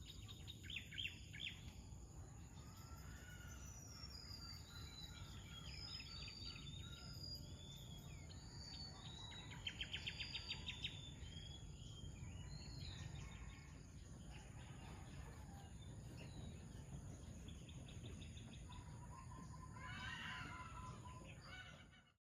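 Several wild birds chirping and trilling over a steady high insect drone, with a low background rumble. It all cuts off suddenly near the end.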